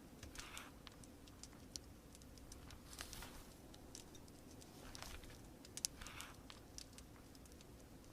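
Quiet crackling fire, with scattered sharp pops and snaps (the loudest a little before six seconds), over a steady low rain hiss. A soft paper rustle, pages being turned, comes every couple of seconds.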